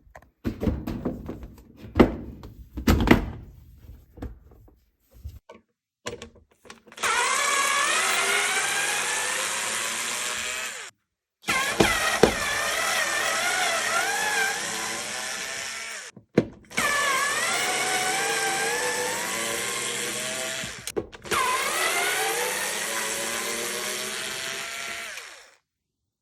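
A few knocks and clicks, then a cordless drill-driver runs in four bursts of about four seconds each, with a whining motor whose pitch rises and wavers as the load changes.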